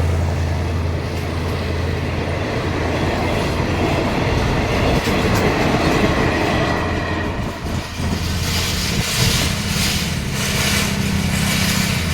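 A diesel-hauled passenger train passing close by: the Alsthom locomotive's low engine hum fades over the first couple of seconds, then the coaches roll past with rumble and wheel clatter over the rail joints.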